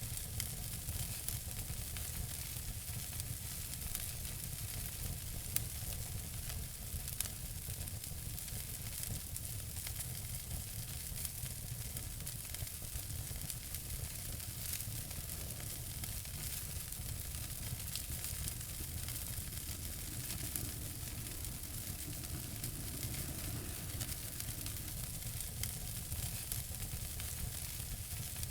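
Wood fire in a fireplace crackling: a steady hiss with frequent small pops, and two sharper pops about six and seven seconds in.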